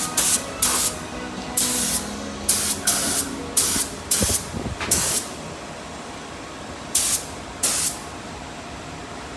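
Paint being sprayed in short trigger bursts, a hiss of about half a second each. Most come in quick succession, then there is a pause before two more near the end.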